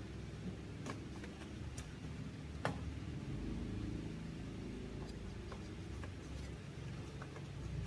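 A steady low hum with scattered light clicks and taps, roughly one a second, and one sharper click a little under three seconds in.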